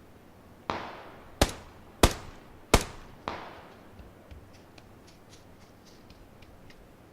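Five sharp bangs or pops in quick succession, about half a second apart, each trailing off in a short echo, followed by a scatter of faint small clicks.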